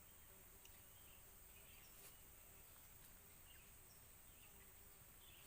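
Near silence with faint outdoor background: a steady high-pitched insect drone, a few faint scattered chirps, and one light click about two seconds in.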